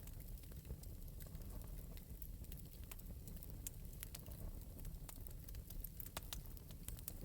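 Fire in an open metal fireplace crackling lightly, with irregular sharp pops and ticks over a steady low rumble.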